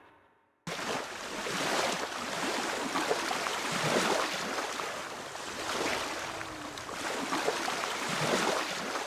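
Small waves washing onto a beach, starting suddenly about two-thirds of a second in, then surging and easing every couple of seconds.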